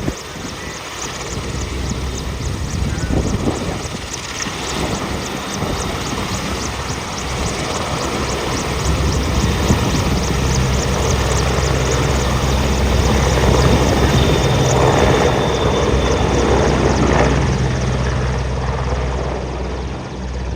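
AgustaWestland EH-101 Merlin helicopter's three turbine engines and main rotor running, with a fast, even rotor beat over the turbine noise. It grows louder through the middle and eases off near the end.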